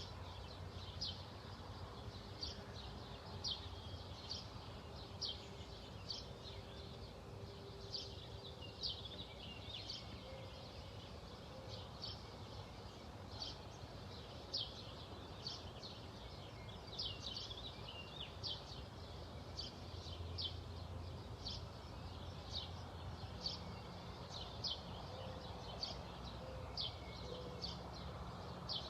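Bird giving short, high chirps over and over, about one or two a second, over a faint steady low hum.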